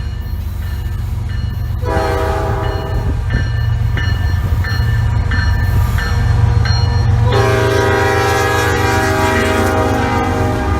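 Passing freight train's locomotive air horn sounding a short blast about two seconds in, then a long blast from about seven seconds on, over the steady heavy rumble of the train.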